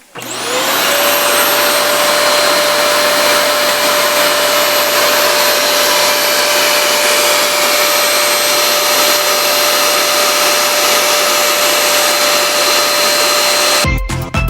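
Komeri house-brand paper-bag vacuum cleaner switched on, its motor whine rising over about a second and settling into a steady, loud running noise. It cuts off suddenly near the end.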